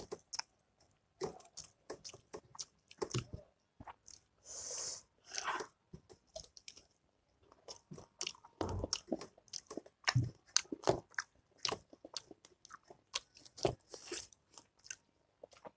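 Close-miked chewing and crunching while eating pork achar with rice: many scattered wet mouth clicks, and a short breathy hiss about five seconds in.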